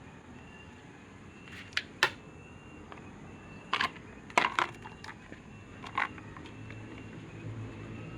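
Electric fan parts or tools being handled: a series of short, sharp clicks and knocks, the loudest about two and four and a half seconds in. A low hum comes up near the end.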